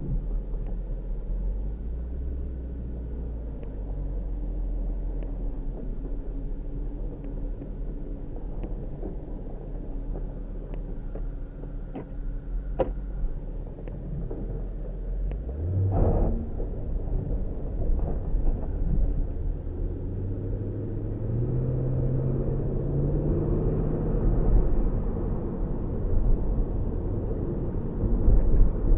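Mercedes W210 AMG's 5.0 V8 heard from inside the cabin, first running low and steady with light clicks about once a second. A thump comes about halfway through. Then the engine pitch rises steadily for several seconds as the car accelerates, and drops back a few seconds before the end.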